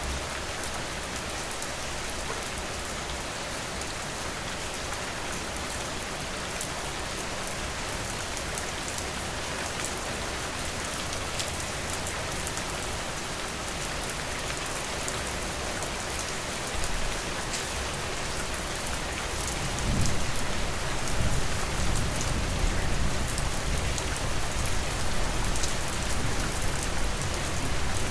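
Steady rain falling, an even hiss dotted with small drop ticks. About two-thirds of the way in, a deeper low rumble swells up and stays, making the whole louder.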